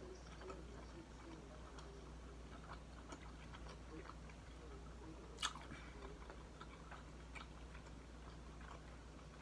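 Faint chewing of a sandwich without dentures, with small wet mouth clicks and smacks and one sharper click about halfway through.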